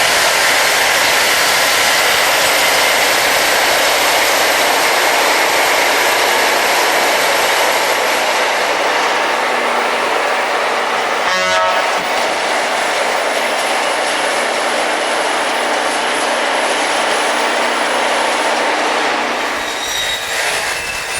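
Rail grinding machine's grinding wheels running on the railhead: a loud, steady, harsh grinding noise that eases slightly in the last seconds. About halfway through comes a short rattle of rapid clicks.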